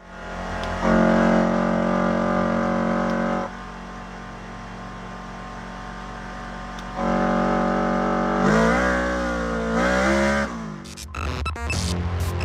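Polaris RZR XP1000 side-by-side engine running through an aftermarket 2.5-inch electronic dump-valve exhaust: held at a steady speed, loud then quieter for a few seconds, loud again, then revved up and down a couple of times. Near the end it gives way to choppy intro sound effects.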